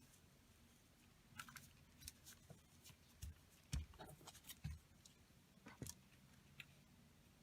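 Scissors snipping and paper being handled during paper crafting: a string of short, quiet snips and clicks with a few soft knocks on the table.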